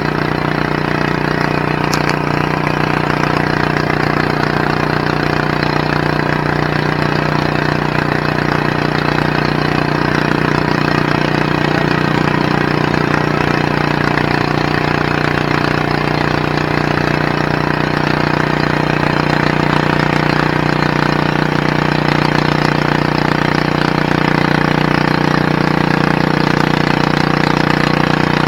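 Garden tractor engine running steadily at an even pitch, growing slightly louder near the end.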